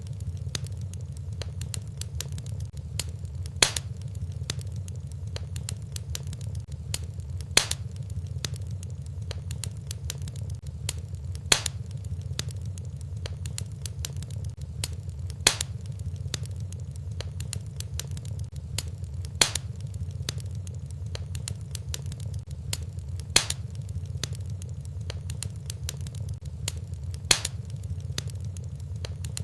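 Fireplace fire crackling over a steady low rumble, with a sharper pop about every four seconds at very even spacing, as in a looped fire recording.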